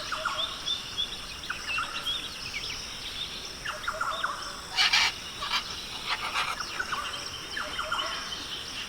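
Rainforest ambience: many small birds chirping in short, quick notes over a steady high insect drone, with one harsh, rasping call about five seconds in.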